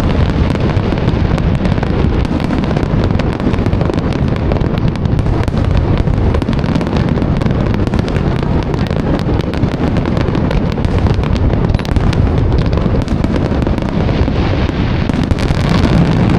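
Aerial fireworks going off in a dense, continuous barrage: rapid overlapping bangs and crackles over a steady low rumble, with no let-up.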